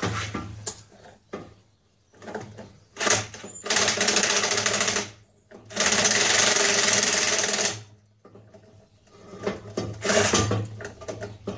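Power screwdriver spinning the worm screw of a large Jubilee hose clip, in two runs of about one and a half and two seconds, with lighter clicks and handling noises around them.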